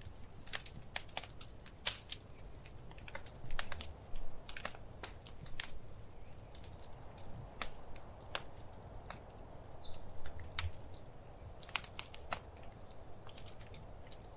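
Wood fire crackling in a fireplace: irregular sharp pops and snaps, a few louder ones clustered around four and five seconds in, over a soft low rumble.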